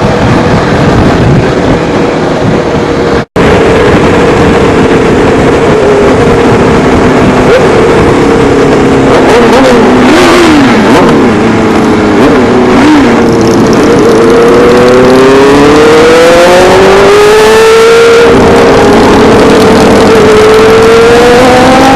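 Motorcycle engine running on the road, with a dense rush of wind on the microphone. The engine note dips and wavers about ten seconds in, then climbs steadily as the bike accelerates, and the sound cuts out for an instant about three seconds in.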